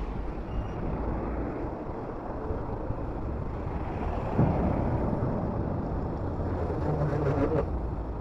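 Wind rumbling on the microphone of a camera on a moving bicycle, mixed with road and traffic noise. There is a single knock about four and a half seconds in.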